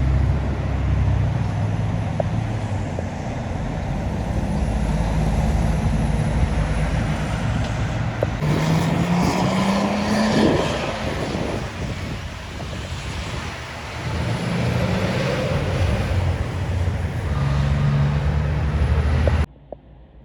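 Heavy trucks driving past on the road, their diesel engines running with tyre and road noise. About halfway through, one engine's note rises as it accelerates. The sound cuts off abruptly near the end.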